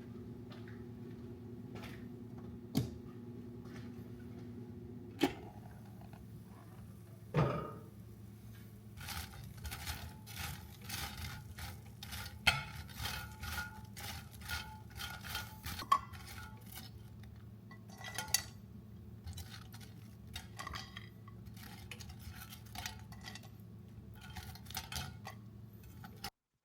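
A steady appliance hum stops with a click about five seconds in. After a thump, dishes and utensils clink and clatter in a run of sharp knocks.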